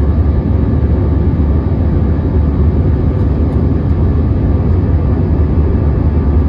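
Airbus A321 cabin noise heard from inside the cabin: a steady, loud, low rumble of engines and airflow, with no changes or separate events.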